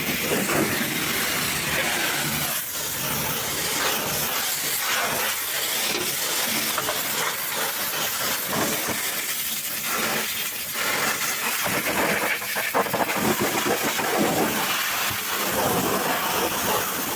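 High-pressure water spray from a pressure-washer wand hitting a truck engine, a loud steady hiss that shifts and sputters as the jet moves over the parts.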